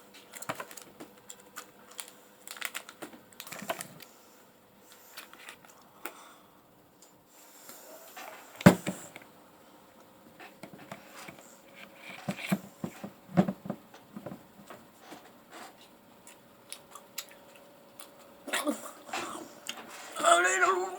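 Scattered light clicks, taps and rustles, with one sharper knock about nine seconds in. A cat starts meowing near the end.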